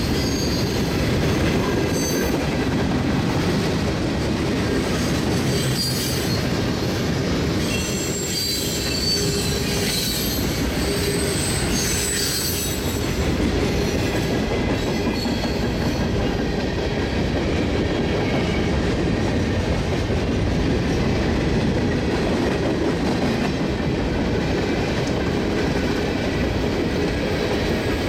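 Manifest freight train's cars rolling past: a steady rumble and rattle of steel wheels on the rails, with thin high-pitched wheel squeals coming and going, mostly in the first half.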